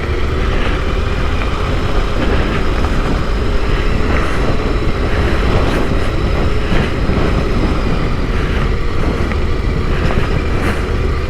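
Yamaha Ténéré 700's parallel-twin engine running steadily at low revs as the motorcycle is ridden slowly off-road, with scattered light clicks and knocks over the rumble.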